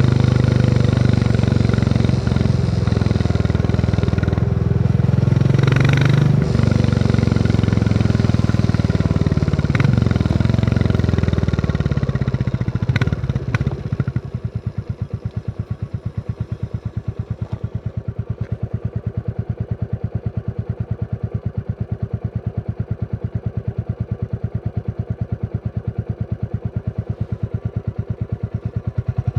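Royal Enfield Classic 350's single-cylinder engine running under way, with a few sharp clicks, then dropping about halfway through to a slow, even idle thump.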